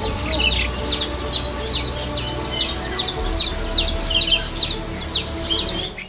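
Small birds chirping in a quick, even series of short, high, falling notes, about three a second, that stop near the end, over background music with sustained notes.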